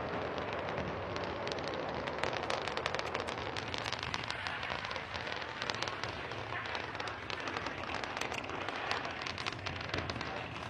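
Falcon 9 rocket's first-stage engines burning during ascent: a steady, dense crackling rumble.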